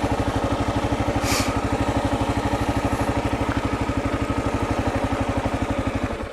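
Kawasaki KLR 650's single-cylinder four-stroke engine idling with an even pulse, then cutting off about six seconds in.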